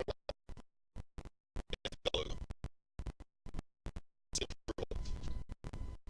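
Choppy, stuttering audio: rapid short fragments of scratchy handling noise, cut apart by repeated dropouts to dead silence, the sign of a faulty sound feed. The longer fragments, about two seconds in and again near the end, are a noisy rustle.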